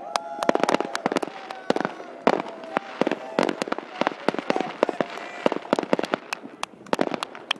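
New Year fireworks: a rapid, irregular barrage of sharp bangs and firecracker cracks, several a second.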